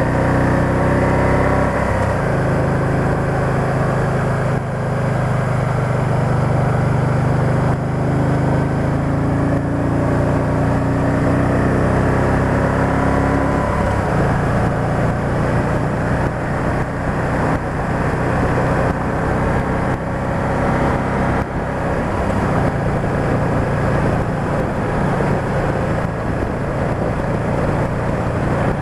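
Can-Am Spyder three-wheeled motorcycle's engine running steadily while riding along a road, with road and wind rumble. The engine note changes pitch about two seconds in and again about halfway through, as the rider changes throttle or gear.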